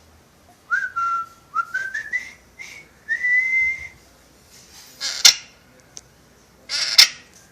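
Pet parrot whistling a short run of clear notes that step upward in pitch, ending on a longer held note, followed by two short harsh noisy sounds.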